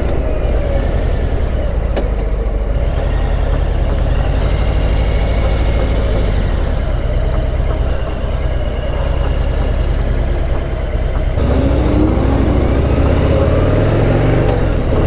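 Harley-Davidson Heritage Classic's V-twin engine running steadily on the move, with a heavy low rumble. It gets a little louder, with a short rise in pitch, about eleven seconds in.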